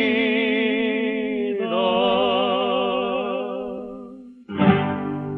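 Male tango vocal duo holding the final sung note with a strong vibrato, moving to a second long note that fades away. Then a closing chord is struck sharply near the end and rings out.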